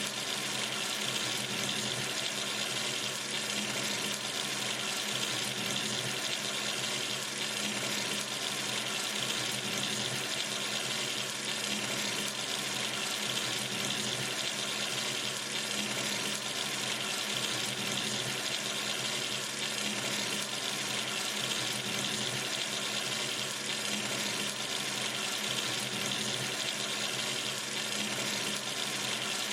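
Water running steadily from a sink tap into the basin, an even splashing rush.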